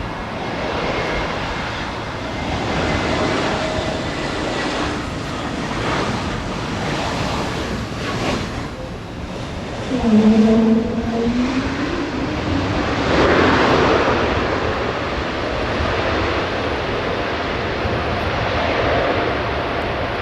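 Jet aircraft engine noise, a steady rushing sound that swells and eases. About ten seconds in, a short pitched sound rising in pitch is briefly louder.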